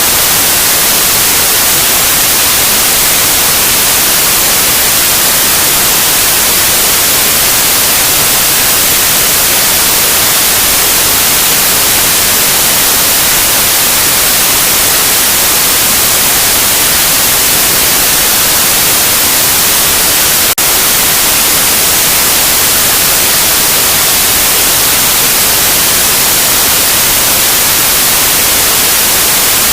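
Loud, steady white noise: an even hiss with no tones or rhythm, brightest in the treble. One brief glitch interrupts it about twenty seconds in.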